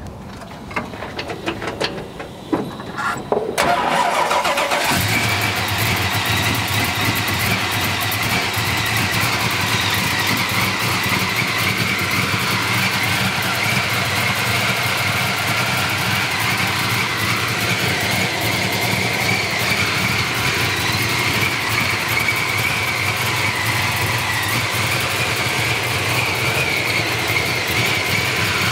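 Supercharged 540 cubic-inch Dart-block big-block Chevy V8 (F-1R ProCharger) cranked on the starter for about three and a half seconds, then catching and settling into a steady idle. A steady high whine sits over the idle.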